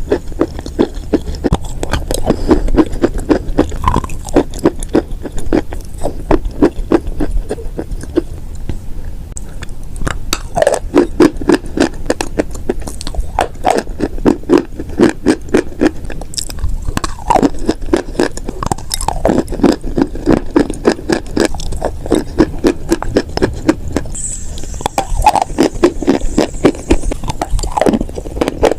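Close-miked chewing of chalk and clay: a dense, rapid run of dry crunches and crackles, many a second, with scraping between bites.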